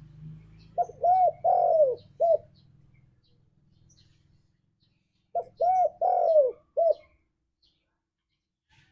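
Spotted dove (tekukur) cooing: two phrases a few seconds apart, each of four notes (short, short, long, short), every note rising and falling in pitch.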